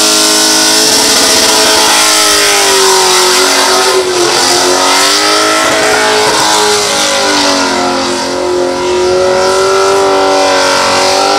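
Holden VY SS Commodore's 5.7-litre V8 revving hard through a burnout, with the revs wavering up and down as the throttle is worked. The rear tyres spin against the pad and give off a constant hiss of tyre noise.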